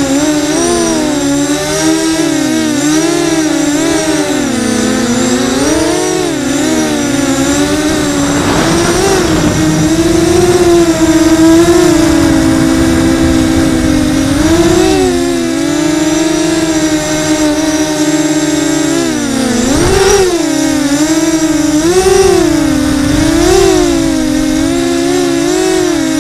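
Blackout 330 quadcopter's motors and propellers buzzing in flight, the pitch wavering up and down again and again as the throttle changes.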